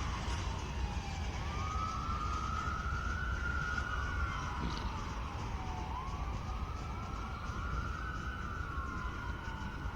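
Emergency vehicle siren in a slow wail, its pitch rising and falling about twice, with a steady low rumble underneath.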